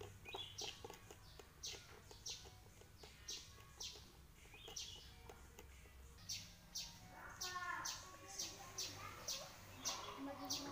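A small bird chirping over and over, short high chirps about twice a second, with a low steady hum beneath. Around two-thirds of the way through, a lower call falls in pitch.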